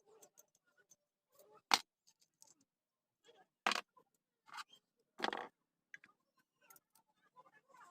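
Metal parts and hand tools knocking and clinking at irregular intervals: four main knocks, the sharpest about two seconds in, with lighter ticks between them.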